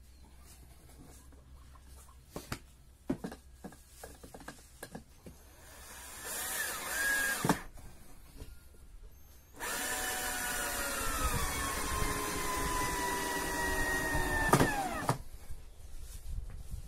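Power drill working pallet wood: a few knocks, a short run about six seconds in, then a longer run of about five seconds whose pitch slowly sinks under load before it stops.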